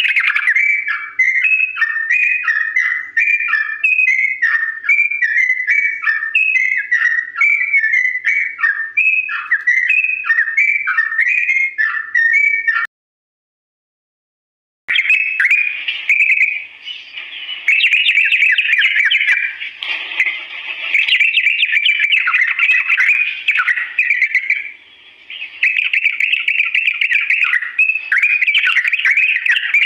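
Yellow-vented bulbul (trucukan) singing. For about the first 13 seconds it repeats a quick bubbling whistled phrase, about two a second, then there is a sudden two-second silence, and then a denser, run-on chattering song with short pauses.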